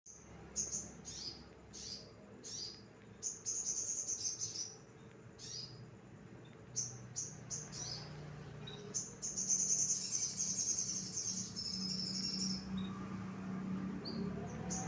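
A sogon, a small songbird, calling in short high chirps. About two thirds of the way through, it breaks into a quick twittering trill for a few seconds.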